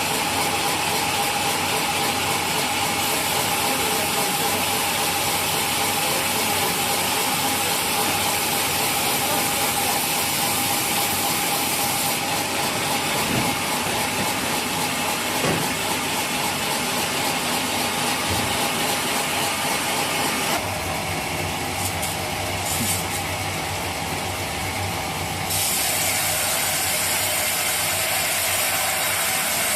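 Sawmill machinery running steadily with a constant whine. For about five seconds, around two-thirds of the way through, the sound thins out and becomes lower, then returns.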